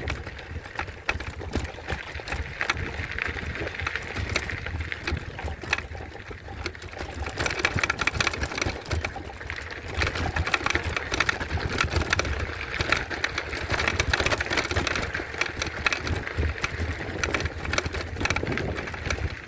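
Folding e-bike ridden at speed over a rough track: the bike rattles and clatters steadily, with tyre noise and a low rumble.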